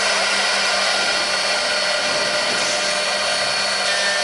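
Multi-spindle 4-axis CNC wood router running, its spindles giving a steady whine with several high tones over a constant hiss.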